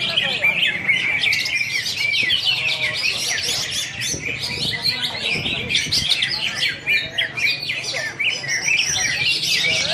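Cucak hijau (greater green leafbird) singing a fast, unbroken stream of chirps, trills and short whistled glides, densely overlapping with no pauses.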